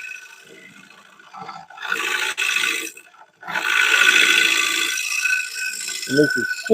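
A gouge cutting into a spinning wooden bowl on a woodturning lathe: two stretches of rough shaving noise, the second longer, as the drop-down cut is made.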